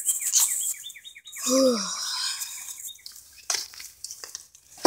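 A bird chirping, a fast string of short falling chirps several a second, over rustling and handling noise as junk is moved about; the chirps stop about three seconds in, leaving scattered clicks and rustles.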